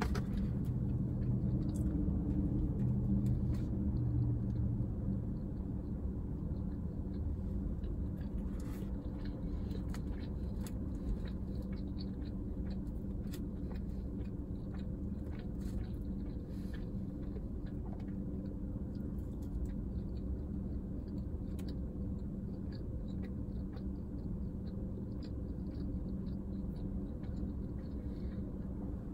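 Close-up chewing and the handling of French fries, with small scattered clicks and crunches, over a steady low hum inside a car cabin. A heavier rumble in the first few seconds fades about five seconds in.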